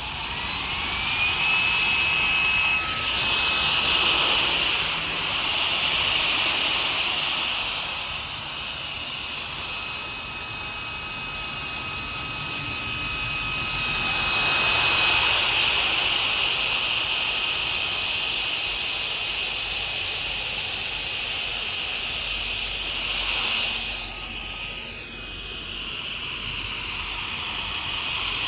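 Cordless rechargeable mini air duster's high-speed fan motor spinning up with a rising whine and a loud rush of air, then running steadily. About three-quarters of the way through it winds down with a falling whine and starts blowing again.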